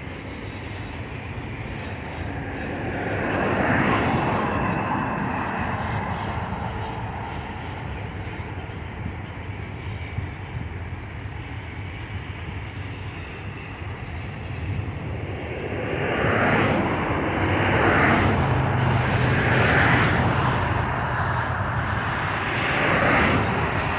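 Freight train of autorack cars rolling past while coasting: a steady rumble of wheels on the rails that swells every couple of seconds as the cars go by, strongest in the second half.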